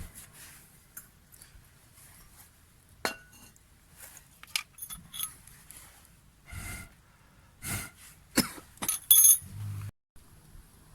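Irregular clinks and knocks of hard objects being handled, sparse at first and then louder and closer together about eight to nine seconds in. The sound cuts off abruptly about ten seconds in, and a steady low hum follows.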